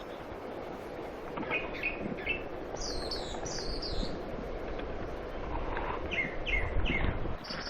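Small birds chirping: short falling notes in clusters of two to four, with a higher-pitched run about three seconds in, over a steady outdoor background rush.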